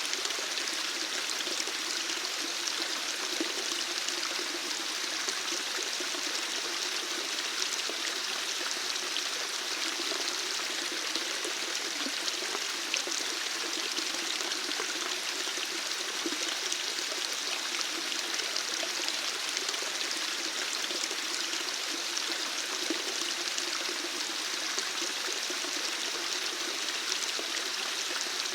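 Flowing water running steadily: an even, continuous rush with fine splashing and no pauses.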